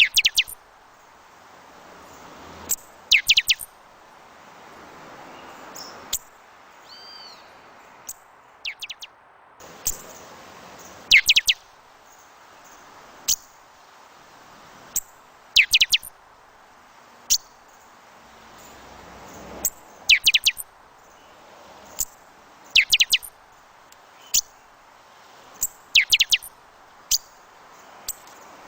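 Birds calling in short clusters of quick, falling chirps repeated every second or two, over wind that swells and fades in gusts.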